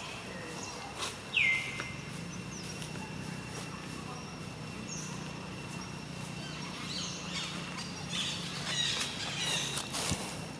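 High-pitched animal calls over steady outdoor background: one short squeak falling in pitch about a second and a half in, then a cluster of quick high chirps near the end.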